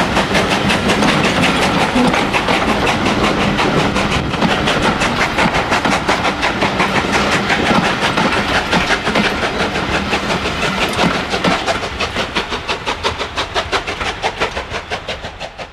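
GWR 42xx 2-8-0T steam tank locomotive working hard, its chimney exhaust beating in a fast, even rhythm of about four to five beats a second. The beats fade away near the end.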